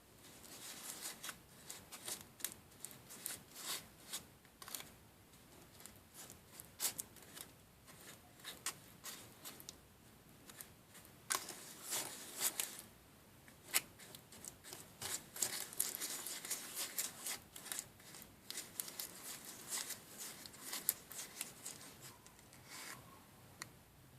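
Small handling sounds from working a DIY candy-making kit: quick clicks, scraping and rustling in an irregular run, busiest around the middle.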